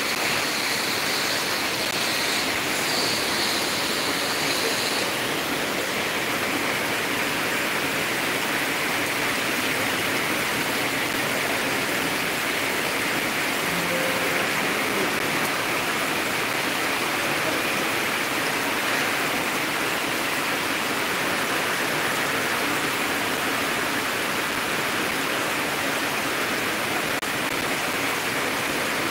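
Heavy rain pouring down onto a flooded street: a steady, even hiss.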